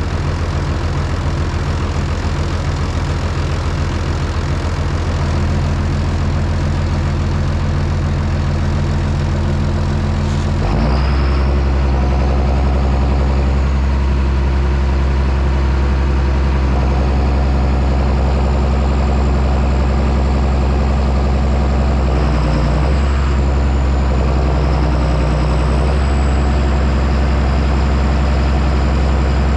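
John Deere 6630 Premium tractor's six-cylinder diesel engine running steadily while plowing. About eleven seconds in, its low note drops in pitch and gets a little louder, and a faint high whine joins it.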